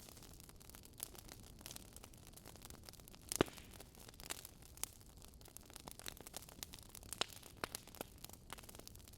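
Fire crackling in a fireplace: irregular sharp pops and snaps over a soft steady hiss, with one louder pop about three and a half seconds in.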